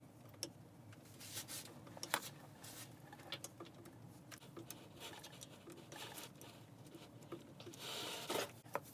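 Faint scattered light clicks and scratchy rustling, like small objects being handled, with a longer, louder rasping stretch near the end.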